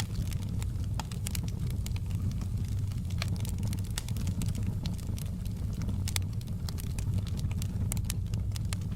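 Wood fire crackling in a fireplace: a steady low rumble with many sharp, irregular pops and snaps scattered throughout.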